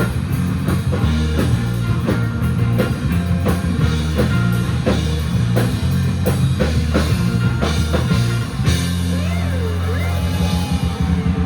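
Live rock band playing an instrumental passage with a steady drum-kit beat, bass and electric guitars. About nine seconds in, the band holds a chord while a lead line bends up and down in pitch.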